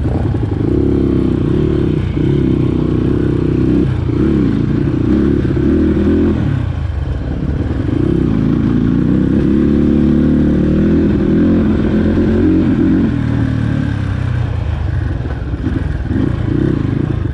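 Dirt bike engine revving up and down as it is ridden over rough trail, with rattling from the bike. The revs drop about six seconds in, pick up again, and ease off near the end.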